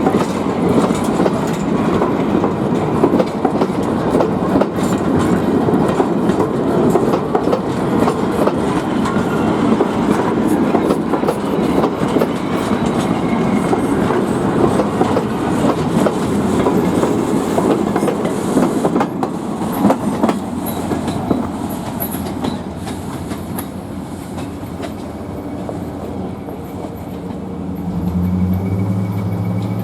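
Passenger train rolling past at a grade crossing, steel wheels clicking over the rail joints in a dense steady rumble that fades as the train draws away in the second half. Near the end a road vehicle's engine hum comes in.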